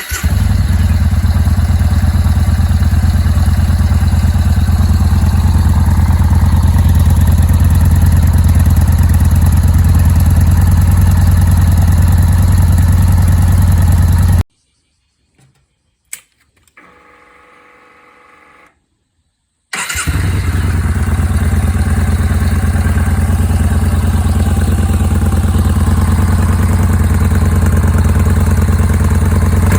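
Yamaha Bolt's 942 cc air-cooled V-twin firing up and idling steadily through its exhaust muffler, then shut off about halfway through. After a short quiet pause with a faint whine, it starts again and idles steadily.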